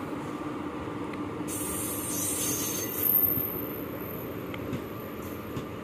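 Indian Railways passenger coaches rolling past along the platform as the express departs: a steady rumble of wheels on rails, with a brief high hiss and a louder moment about halfway through.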